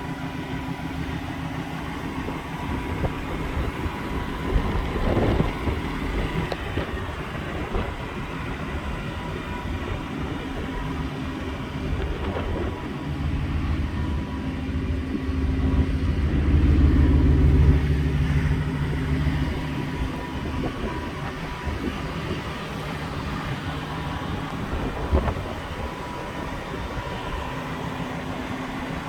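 A vehicle engine running with a steady low rumble, swelling louder for several seconds around the middle before settling back.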